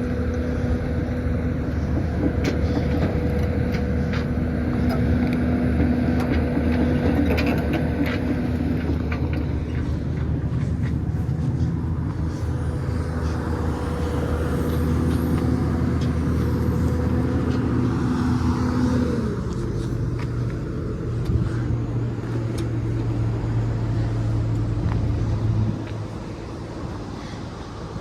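A nearby engine running steadily with a low hum. About two-thirds of the way through its pitch slides down, and near the end the sound drops away to a quieter background.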